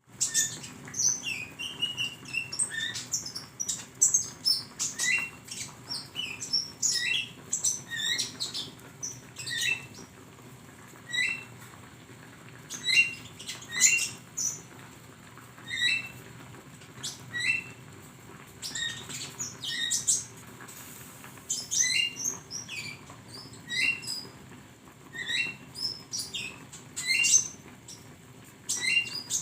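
Konin (kolibri ninja) sunbird song: bursts of short, very high chirps and rapid twitters, repeated in quick phrases with brief pauses between them, over a faint steady low hum.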